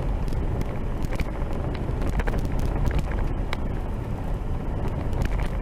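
A vehicle driving on a rough dirt road: a steady low rumble with frequent small rattles and knocks.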